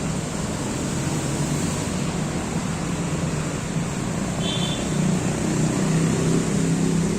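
Steady hum of road traffic, with a low engine drone that swells and fades. A brief high chirp sounds about four and a half seconds in.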